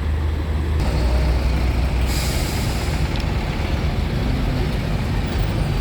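Heavy truck engines running with a steady low rumble, and a burst of air-brake hiss about two seconds in that lasts about a second.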